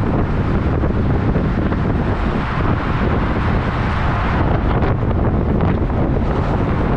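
Wind rushing over the microphone on a moving truck and trailer, over the steady low rumble of the truck on the road.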